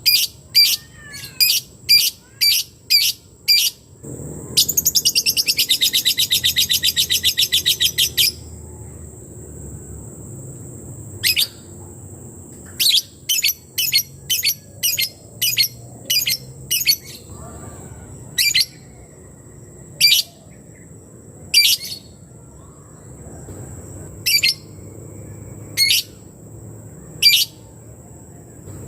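Lebet (labet) bird calling. Sharp high notes come about three a second, then a fast ticking trill lasting about four seconds, the 'typing' call, then single notes spaced a second or two apart.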